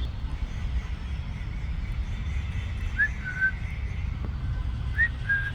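Two short, clear whistles, about two seconds apart. Each is a quick upward slur that settles into a briefly held note. A steady low rumble runs underneath.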